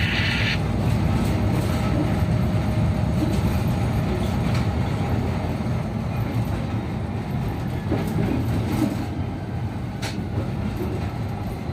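Diesel locomotive running and moving a train of wagons during shunting: a steady low rumble with a few faint clicks. A brief band of hiss cuts off about half a second in.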